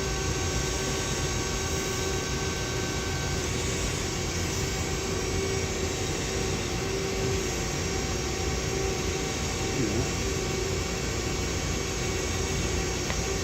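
Powered-up Doosan Lynx 220 LSYC CNC turning center giving off a steady machine hum with several steady tones over it. One higher tone drops out about three and a half seconds in.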